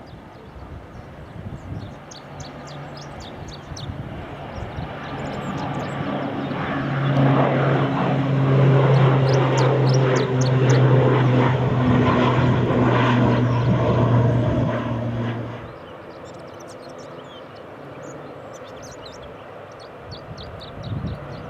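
A turboprop airliner passing close by, its propellers making a steady low hum. The hum builds up, is loudest through the middle, and drops away sharply near the end.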